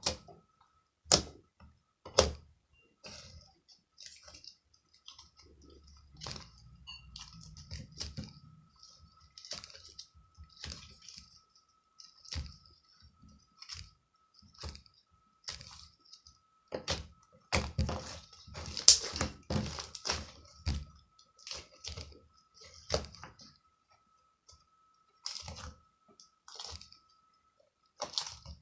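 Irregular sharp clicks and knocks, some with a dull low thump, over a faint steady high tone.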